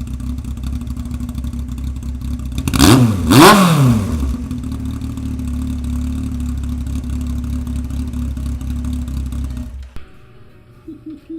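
Yamaha FZS1000's inline-four engine idling through an aftermarket Radiant Cycles exhaust, blipped twice about three seconds in with quick rising and falling revs, then idling steadily again until the sound cuts off abruptly near the end.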